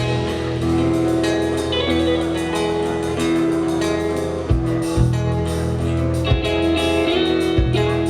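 Live band music: guitar notes held over a steady bass, with a few sharp beats in the second half.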